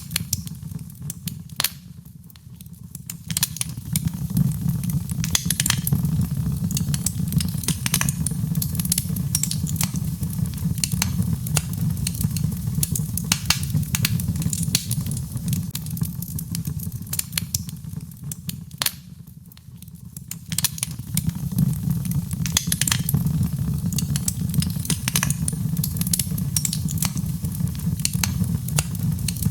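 Birch logs burning in a fireplace: frequent sharp crackles and pops over a steady low rush of the flames, which eases briefly twice.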